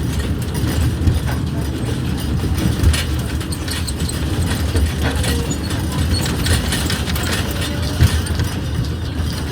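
Small park train running: a steady low rumble with scattered clicks and clatter from the moving cars.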